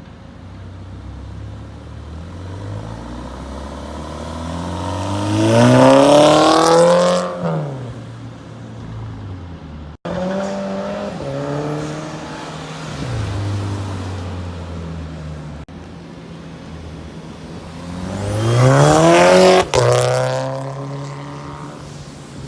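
Car engine revving hard under acceleration. Its pitch climbs steeply to a loud peak twice, then drops away, with stepped changes in pitch between the two climbs.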